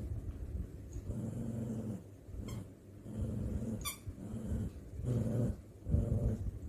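Dog growling in play, a run of low grumbling growls of about a second each, with a couple of short sharp clicks between them.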